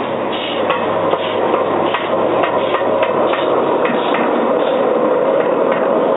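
Steady hiss from a small live-steam locomotive being warmed up, with irregular sharp metallic knocks and clicks over it.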